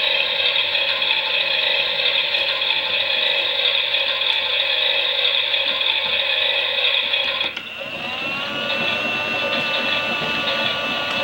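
Toy washing machine's small electric motor and gears whining steadily as the drum turns during a wash. About seven and a half seconds in the whine dips and starts again, rising in pitch as the motor picks up speed before settling.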